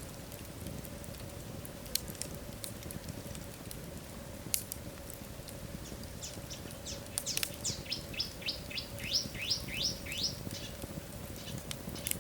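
Wood fire burning in a fireplace: a low rumble with scattered sharp crackles and pops. About halfway through there is a run of roughly a dozen short, high chirps, about three a second, for some four seconds.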